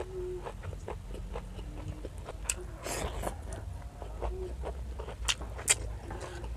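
Close-up eating sounds of a person chewing fresh seaweed: many wet crunches and mouth clicks, with a longer crunch about three seconds in and two sharper clicks near the end.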